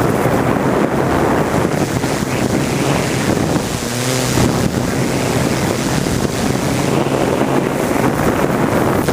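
Steady motor and propeller drone of a flying aircraft, heavily mixed with wind buffeting the microphone.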